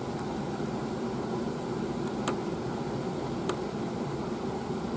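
Steady background hum of a running fan or air-conditioning unit, with two faint clicks about two and three and a half seconds in.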